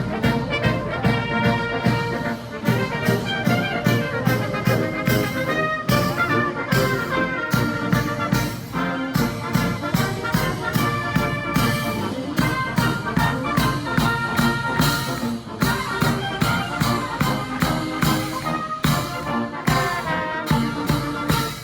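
Military band playing live: brass melody over a steady drum beat.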